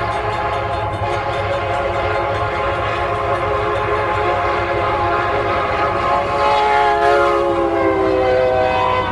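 Train horn sounding one long chord over the low rumble of a moving train. Its pitch slides slightly lower late on as the train goes by.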